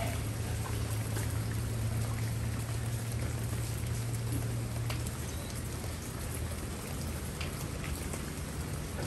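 Rain falling on garden plants: a steady patter with scattered single drops tapping on the leaves. Beneath it runs a low steady hum that eases about five seconds in.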